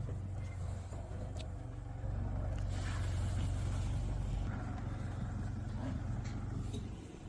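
Car engine running at a steady low idle, with a few light clicks and knocks over it; the engine sound dies away near the end.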